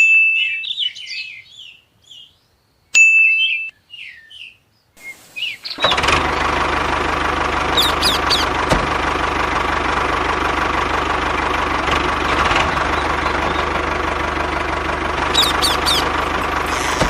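Birds chirping, then about six seconds in a small engine starts and runs steadily with a low hum, while a few bird chirps continue over it.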